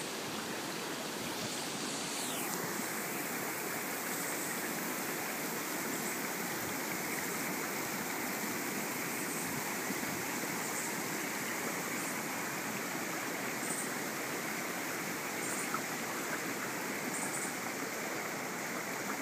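Floodwater flowing in a steady, unbroken rush.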